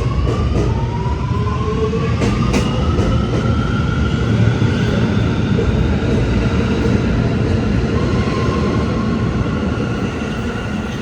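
Kawasaki R211A subway train accelerating: its traction motors whine in several slowly rising tones over a heavy rumble of wheels on rail.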